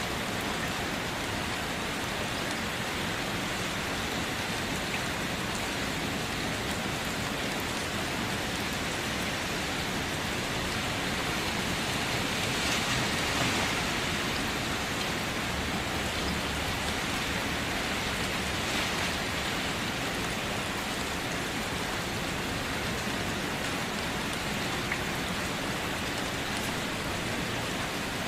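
Steady rain falling, an even hiss with scattered drop ticks, swelling slightly about halfway through.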